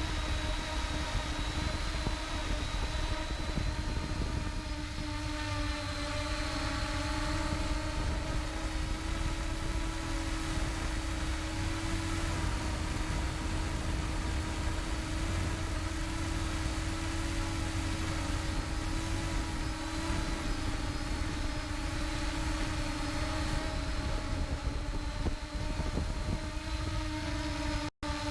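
An engine running steadily at an even pitch over a low rumble; the sound drops out for an instant near the end.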